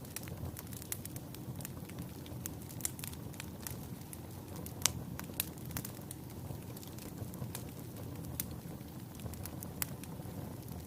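Wood fire burning in a fireplace: a steady low rumble of flame with irregular sharp crackles and pops, one louder pop about halfway through.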